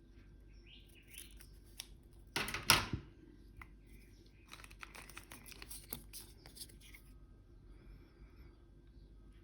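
Paper label being handled and cut at a work table: a loud paper rustle about two and a half seconds in, then a run of short, light clicks and snips.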